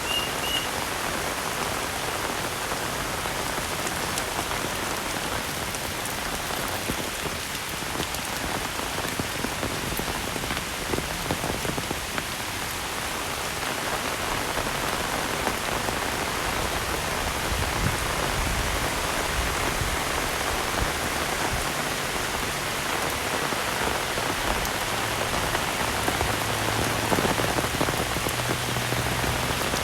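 Heavy rain falling steadily on surfaces, a dense even hiss flecked with individual drop hits. A few short high chirps sound right at the start.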